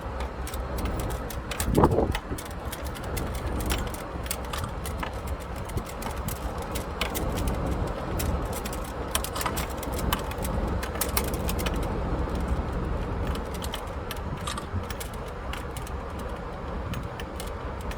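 Car's steady low road and engine rumble, with scattered sharp irregular ticks of raindrops striking the car throughout. A brief louder bump about two seconds in.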